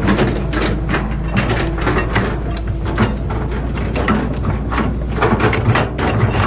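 Excavator's diesel engine running steadily under many irregular metallic clanks and knocks.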